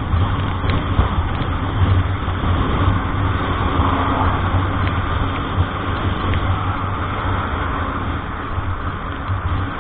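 Motor vehicle on the road: a steady low engine hum under even road noise.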